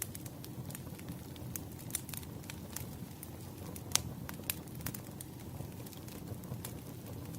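Wood fire crackling: irregular sharp pops and snaps over a steady low rumble, the loudest pop about four seconds in.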